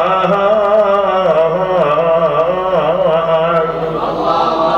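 Male voice singing an Arabic devotional poem (inshad), drawing out a long wavering, ornamented melismatic line. About four seconds in it settles onto a steadier held note.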